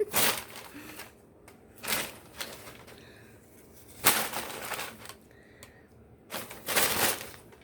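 Packing paper rustling and crinkling in several separate bursts as a cat plays in it.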